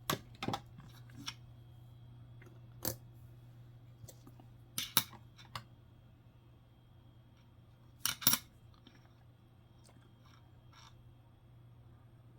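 Scattered sharp clicks and light taps of nickels being handled, a few coming in quick pairs, over a steady low hum.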